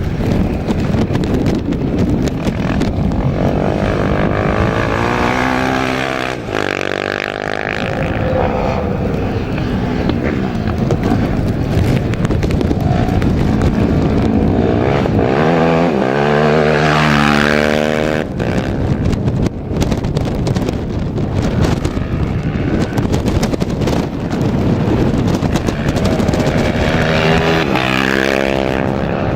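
Small racing engines passing by at speed three times, roughly every eleven seconds, each pass dropping in pitch as it goes by, over a steady rushing noise.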